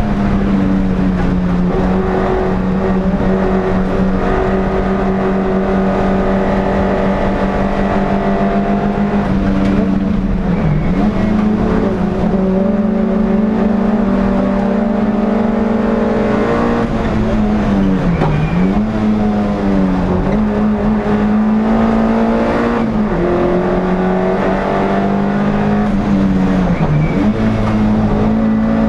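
NSU TT racing car's air-cooled four-cylinder engine running hard at high revs, heard from inside the car. The pitch holds mostly steady, dipping briefly and climbing back three times as the driver lifts or shifts for corners.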